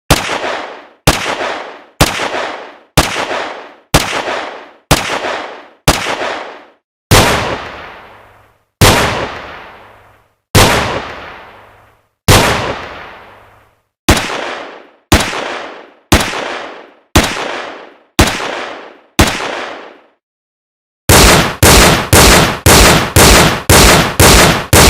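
Gunshot sound effects: single shots about one a second, four of them in the middle with longer, slower-dying tails. After a pause of about a second, rapid automatic fire at about three shots a second.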